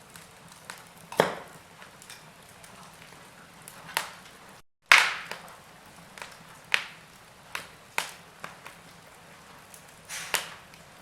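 Wood fire crackling: burning logs give sharp, irregular pops over a soft steady hiss, the loudest pop about halfway through, just after a split-second dropout to silence.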